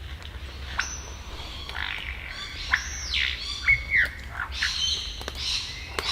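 Superb lyrebird singing a varied string of mimicked calls: whistles that sweep sharply down, arched notes, and a quick run of repeated notes near the end.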